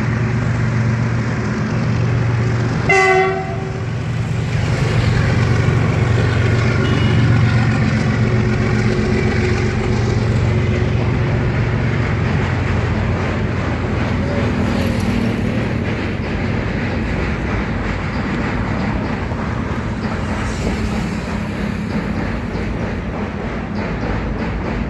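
Goods train crossing a railway bridge: a steady low rumble of the rolling wagons, with a short horn blast about three seconds in.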